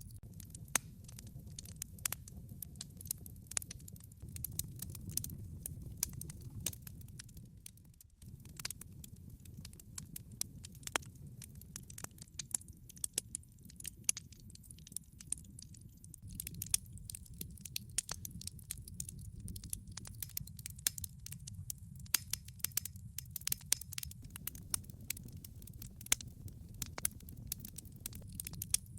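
Log fire in a fireplace crackling, with many irregular sharp pops and snaps of burning wood over a steady low rumble of the flames. The rumble dips briefly about eight seconds in.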